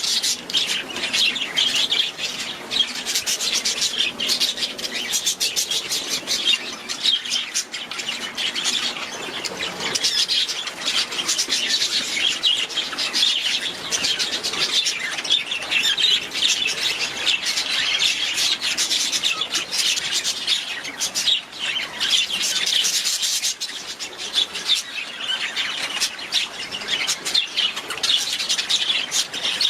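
Budgerigars chattering continuously, many short chirps and squawks overlapping without a break.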